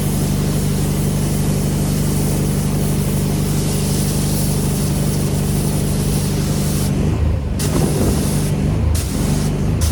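Pressure washer running, its engine humming steadily under a hissing high-pressure spray. About seven seconds in the spray cuts out briefly and the engine note wavers, and this happens twice more in short breaks near the end.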